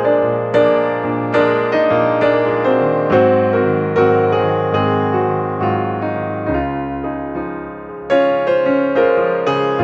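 Background piano music: a gentle melody of single struck notes over sustained chords, a note about every two-thirds of a second.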